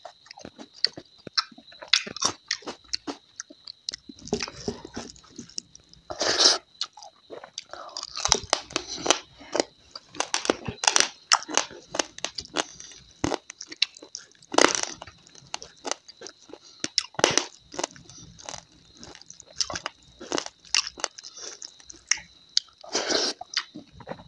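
Close-miked eating sounds: chewing with crisp crunches, bites and wet mouth clicks as a person eats crab and dried squirrel chutney by hand, with a few louder crunches now and then.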